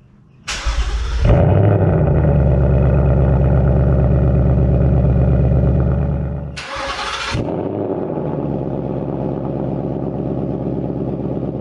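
Cold start of a 2019 Mustang GT's 5.0 V8 through a Pypes H-pipe exhaust: a brief crank, then the engine catches and runs at a loud, high fast idle. About six seconds in it drops to a quieter steady idle, with a short burst of hiss as it settles.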